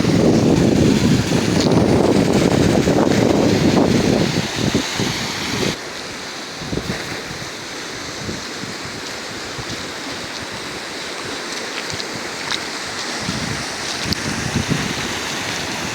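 Rushing water of a rain-swollen river, a steady hiss, with heavy wind buffeting on the microphone that is loud for the first four seconds or so and drops away about six seconds in.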